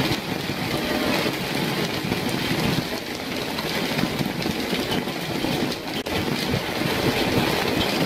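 Hail pelting down: a steady, dense rattle of many small hits.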